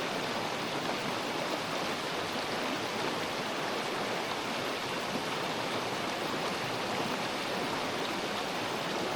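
A small woodland river rushing steadily: an even wash of running water that neither rises nor falls.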